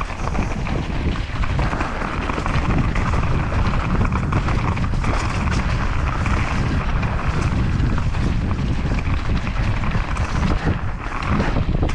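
Wind buffeting the microphone over the steady rumble and rattle of a mountain bike descending a rough dirt downhill trail at speed.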